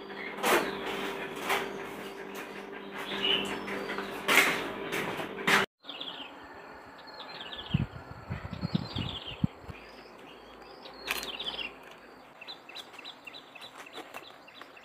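A steady low hum with a series of sharp clicks, cut off abruptly about six seconds in. After it come small birds chirping in short falling calls, with a few low thuds.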